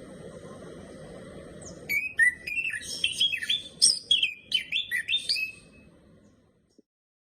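A bird chirping: a quick run of short, rising and falling chirps begins about two seconds in after a soft background hiss, and fades out near the end.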